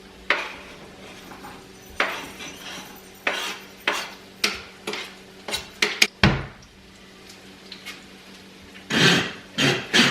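Kitchen clatter: utensils and dishes knocking against pots and pans in about a dozen separate clanks and taps, with a heavier thud about six seconds in and two longer, noisier clatters near the end.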